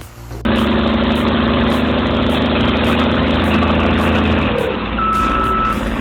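Caterpillar D7R Series 2 bulldozer's 3176 diesel engine running steadily, its note shifting about four and a half seconds in. From about five seconds in, its reversing alarm sounds long beeps about once a second.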